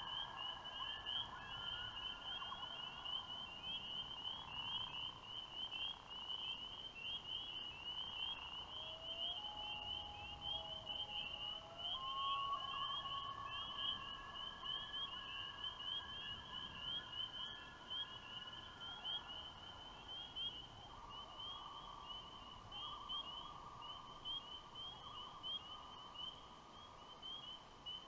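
Common loons wailing: long, drawn-out calls, several overlapping, each holding a pitch and sliding slowly up or down. Underneath runs a steady high-pitched chorus of peeping frogs.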